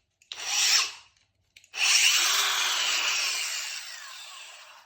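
Metabo 5-inch cordless brushless angle grinder run free with no load: a short trigger pull that spins up and drops off within the first second, then a longer run whose whine winds down gradually after the trigger is released.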